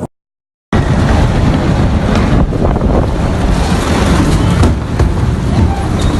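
Strong wind blowing hard across the microphone: a loud, steady buffeting noise, heaviest in the low end. It starts after a half-second gap of dead silence near the start.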